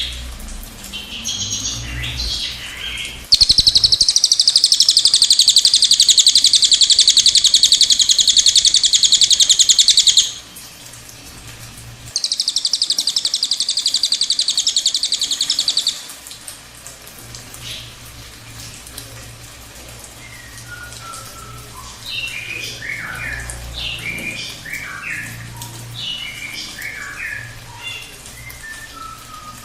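Cililin songbird singing its long rolling trill (ngerol): a loud, rapid, high trill lasting about seven seconds, a short pause, then a second trill of about four seconds. After that come scattered short high chirps.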